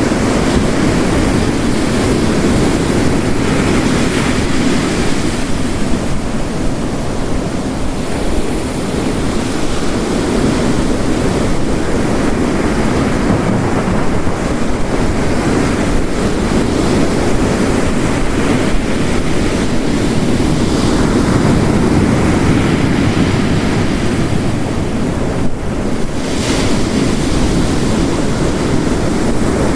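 Mixed storm ambience of heavy rain and ocean surf crashing on a rocky coast: a steady, dense roar of water, with a brief brighter rush of spray about 26 seconds in.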